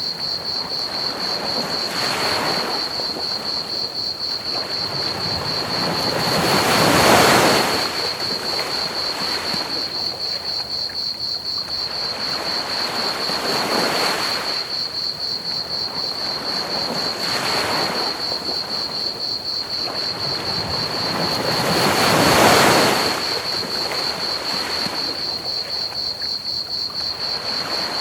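Ocean waves washing onto a beach in slow swells, with two bigger breakers about 7 and 22 seconds in, over a steady hiss of pink noise. A fast, even cricket chorus chirps high above it throughout.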